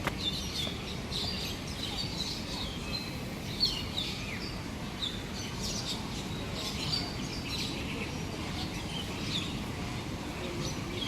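Many birds chirping and calling over one another, a dense run of short, high chirps over a steady low background hum.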